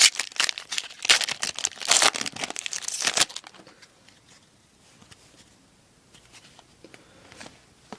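A trading-card pack wrapper being torn open and crinkled in the hands, a dense crackle for about three seconds that then stops, leaving only faint handling sounds of the cards.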